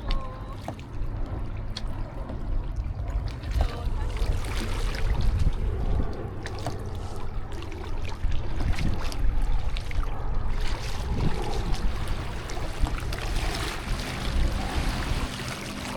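Water splashing and lapping around a kayak on a lake, with wind rumbling on the microphone.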